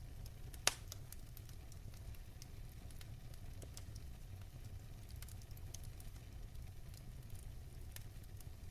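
Fire crackling in a fireplace: a steady low rumble of the flames with frequent small crackles, and one sharp pop less than a second in.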